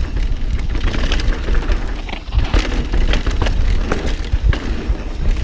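Mountain bike rolling fast down a rough dirt trail: a continuous low rumble of tyres and riding noise, with frequent rattling clicks and knocks as the bike hits rocks and bumps.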